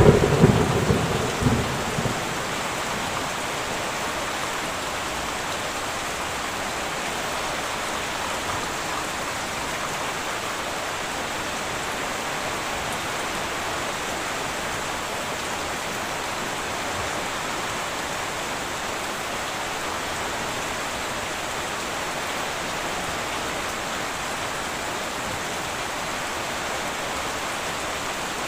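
Heavy rain falling in a steady hiss. It opens with a thunderclap that rumbles and fades over about two seconds.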